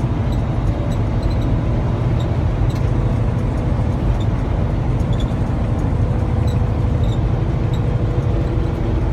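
Semi-truck cab at highway cruising speed: the engine and road noise make a steady low drone, with faint scattered ticks over it.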